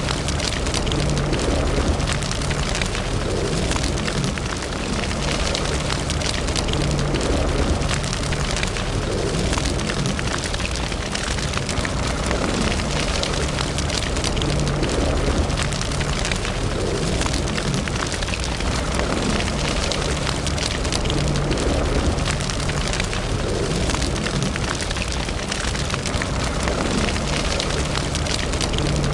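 Wood fire burning in a fireplace, crackling and popping densely and without pause over a low rumble.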